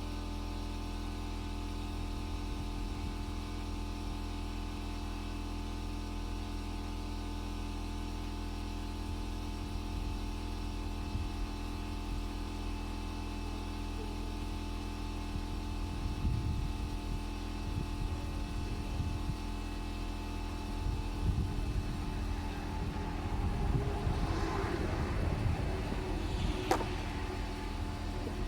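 A steady machine hum, with scattered low knocks in the second half and a sharp click near the end.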